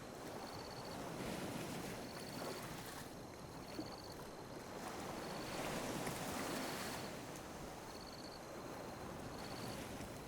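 Calm sea waves lapping and washing on a beach, swelling and easing in slow surges. A faint, short high chirp repeats about once a second.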